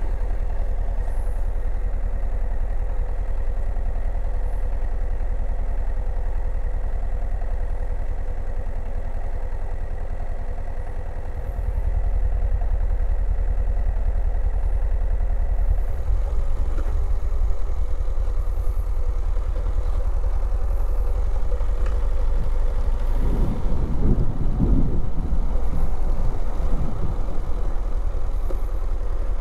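Motorcycle engine idling steadily while the bike stands parked, then running on as the bike rides off, with rougher low rumble in the last few seconds.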